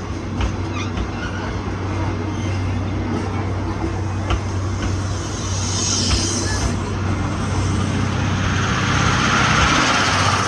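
Chichibu Railway steam train running, with a steady low hum and a few sharp clicks in the first seconds. A short hiss comes about six seconds in, and a broader hiss swells near the end.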